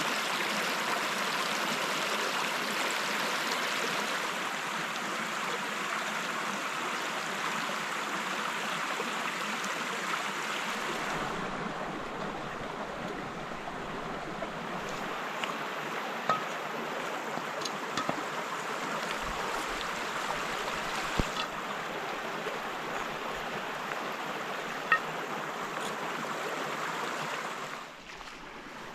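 Steady rush of running water, like a forest stream, with a few faint sharp ticks over it; it drops away suddenly near the end.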